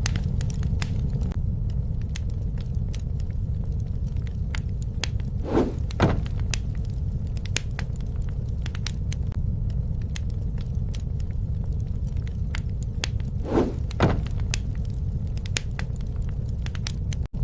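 Wood fire burning, a steady low rumble of flames with frequent sharp crackles, and twice a pair of louder pops, about eight seconds apart.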